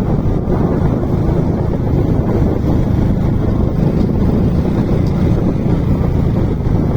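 Steady wind rush on the microphone of a moving motorcycle, with the engine running underneath.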